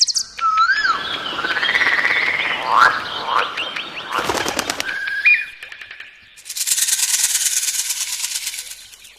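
A succession of different bird calls: a whistled note that rises and falls, then a noisy chattering stretch with quick upward sweeps, then a rapid high buzzing rattle of about two seconds near the end.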